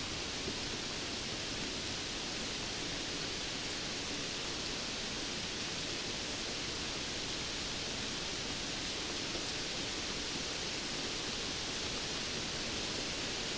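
Steady rainfall: an even, unbroken hiss with no single drops, thunder or other events standing out.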